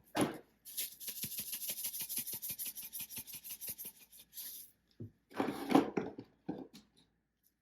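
Creole seasoning shaken from a spice shaker onto raw chicken: a quick, even rattle of about six shakes a second for some four seconds, then a louder rustling burst and a few light clicks.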